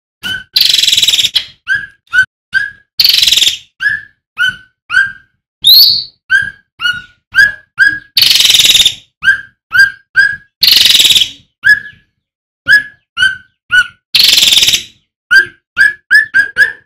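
Male cucak ranting (cucak rante) bird singing rapidly: a quick run of short clear chirps, repeated several times a second, broken every couple of seconds by longer harsh rasping notes.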